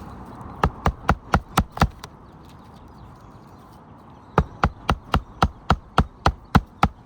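Hand hammer driving roofing nails into asphalt shingles: a quick run of five blows, a pause, then a longer run of about eleven, at roughly four blows a second.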